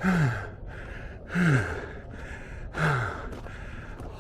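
A man breathing hard from the exertion of a steep climb: three heavy voiced exhalations, about a second and a half apart, each falling in pitch, with panting in between.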